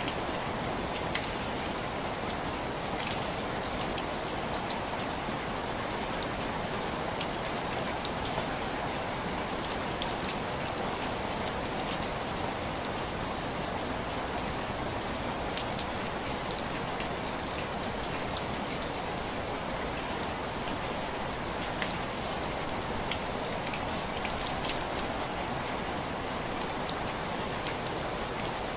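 Steady rain pattering on window glass, with scattered sharper drop ticks over an even hiss.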